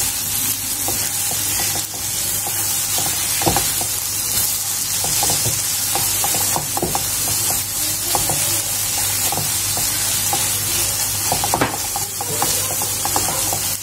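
Coarse red chilli paste frying in oil in a nonstick kadhai, sizzling steadily, while a silicone spatula stirs it around the pan with irregular scraping strokes.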